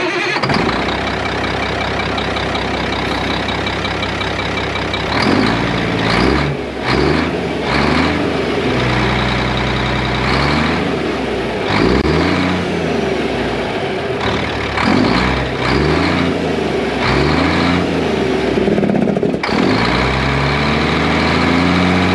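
Caterpillar C10 inline-six diesel in a Peterbilt cabover running through a single straight exhaust pipe with the muffler removed. It idles steadily for about five seconds, then is revved up and down over and over, some blips short and some held for a second or two. It has a louder, throatier bark from the open pipe.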